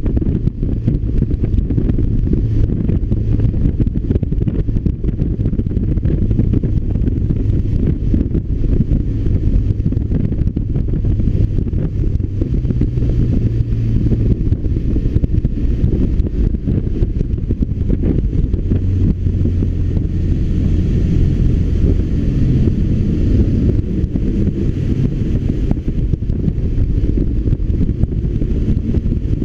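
BMW R1200RT's boxer-twin engine running while the motorcycle is ridden, mixed with heavy wind rumble on the microphone. Its pitch shifts only slightly throughout.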